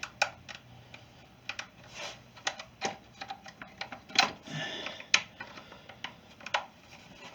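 Irregular sharp clicks and knocks of a Stihl FS40C string trimmer's plastic housing parts being handled and fitted back together, with a brief scraping about four seconds in.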